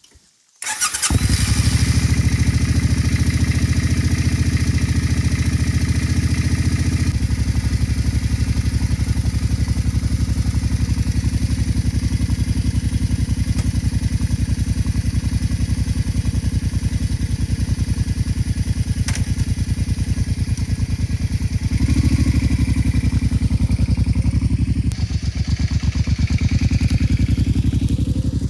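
Motorcycle engine starting less than a second in and then running steadily, with a shift in its note a few seconds in and again near the end.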